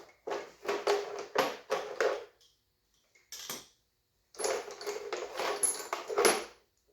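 Metal hand tools clinking and rattling in two bursts of about two seconds each. The first starts just after the beginning, with a brief knock in between, and the second runs from a little past four seconds to near the end.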